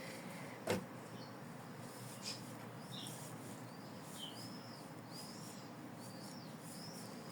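Faint run of short, high, arching chirps repeating about once a second, like a small bird calling, over quiet room tone. There is one sharp click under a second in.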